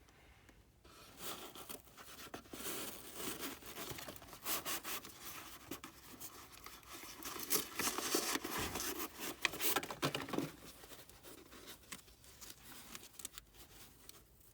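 Packaging crinkling and tearing as a replacement furnace hot surface igniter is unwrapped, with irregular rustles and sharp crackles that are loudest past the middle.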